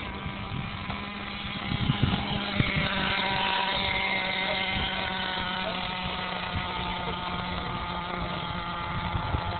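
Small nitro glow engine of a radio-controlled monster truck running: a steady buzzing engine note that gets louder about two seconds in, then holds.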